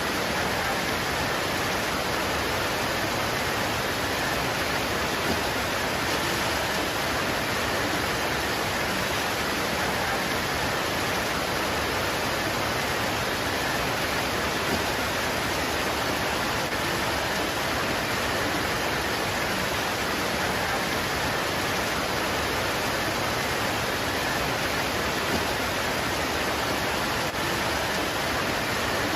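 Steady heavy rain pouring on leaves, a dense, even hiss without separate drops or thunder standing out.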